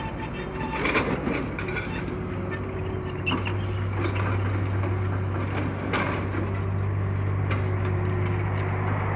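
Diesel engine of heavy road-construction machinery running steadily, with a few knocks and clanks scattered through.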